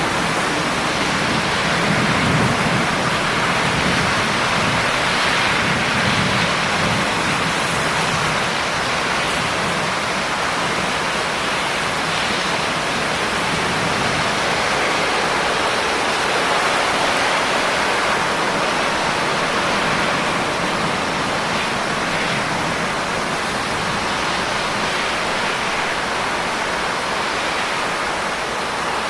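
Steady, dense rainfall hissing without a break, with a low rumble underneath during the first several seconds.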